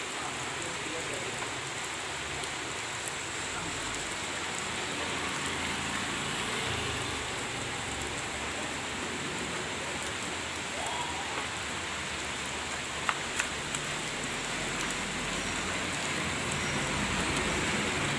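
Steady heavy rain falling on a wet street, an even hiss throughout, with two sharp clicks about thirteen seconds in.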